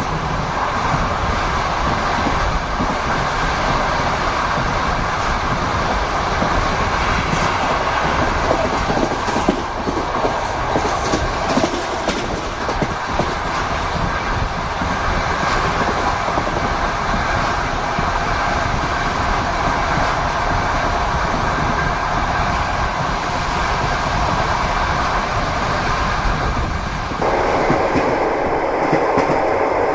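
Steady running noise inside a passenger train carriage, with the wheels knocking over the rails. Near the end the tone shifts abruptly to a thinner, brighter rumble.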